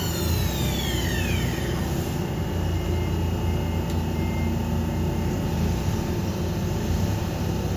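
Okuma MA-600HII CNC horizontal machining center running. A high whine falls in pitch and fades over the first two seconds as the spindle slows, leaving a steady low machine hum.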